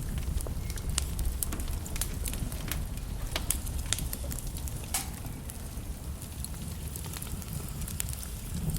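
Logs burning in a fireplace, crackling with frequent irregular sharp snaps and pops over a steady low rumble of the flames.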